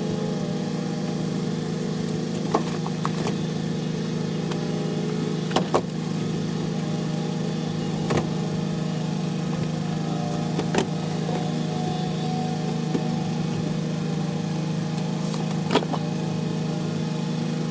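Delivery truck engine running at a steady pitch, with a few sharp clicks or knocks scattered through.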